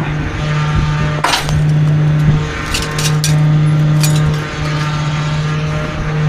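Garbage truck running steadily to drive its packer, with several sharp cracks and snaps as bulky items break under compaction: one loud crack a little over a second in, then a quick run of smaller ones.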